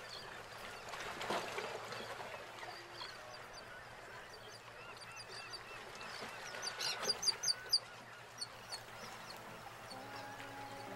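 Birds calling in a quick series of sharp, short, high notes about seven seconds in, over waterfront background noise. Music begins near the end.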